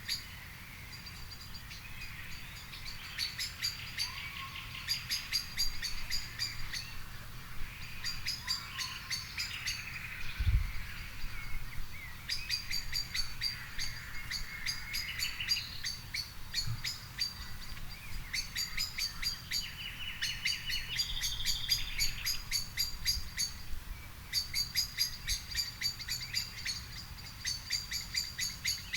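Several songbirds singing and chirping together in an evening garden chorus, with quick runs of high repeated notes overlapping one another. There is a single low thump about ten seconds in, and a faint low rumble underneath throughout.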